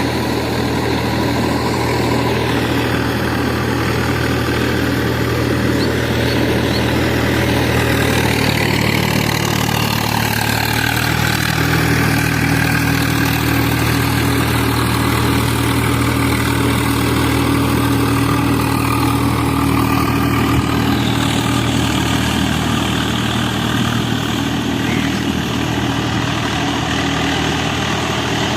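Swaraj 855 tractor's three-cylinder diesel engine running steadily while ploughing wet ground, its note shifting slightly about eleven seconds in.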